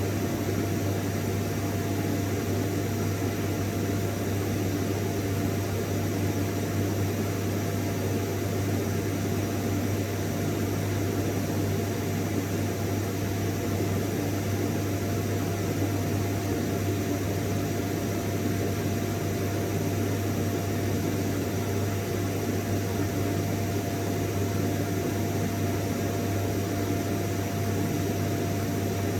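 Vacuum cleaner motor running steadily: an even rushing hiss over a low hum, with a faint steady whine.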